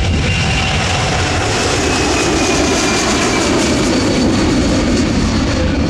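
Boeing C-17 Globemaster III's four Pratt & Whitney F117 turbofans at full power on a max performance takeoff: a loud, steady jet roar with a faint whine that slowly falls in pitch.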